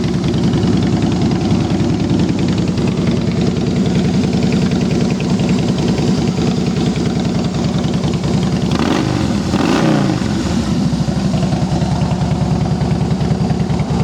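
Harley-Davidson 103 cubic-inch V-twin idling steadily through Vance & Hines Longshot exhaust, with one blip of the throttle about nine seconds in that sends the engine up in pitch and back down to idle.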